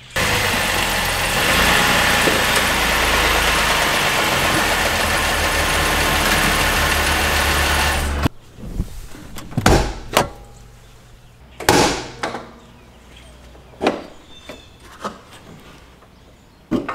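The Ford Edge's 3.7-litre V6 engine running, loud and steady, as the SUV is put up on plastic car ramps; the sound cuts off after about eight seconds. Then come a few separate clunks and clicks as the hood is opened and propped.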